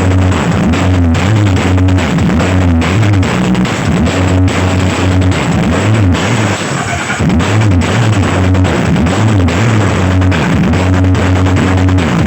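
Loud music with a deep repeating bass line and drums, played at high volume through a carnival parade sound system.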